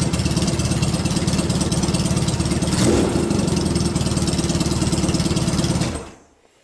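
Yamaha XS650 air-cooled parallel-twin engine idling steadily after a top-end rebuild, with no tapping or knocking. It is briefly louder about three seconds in, then is switched off and dies away about six seconds in.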